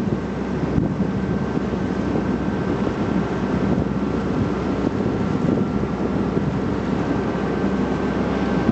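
Passenger cruise boat's engine running steadily with a low hum, with wind buffeting the microphone.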